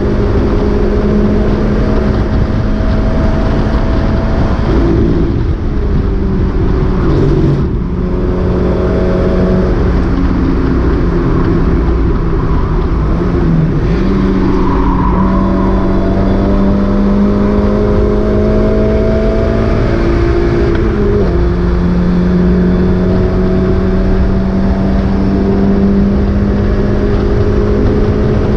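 Mazda MX-5 race car's four-cylinder engine running hard under load, its pitch climbing slowly through long pulls. The revs dip about eight seconds in and again around fourteen seconds, and drop sharply at an upshift about two-thirds of the way through.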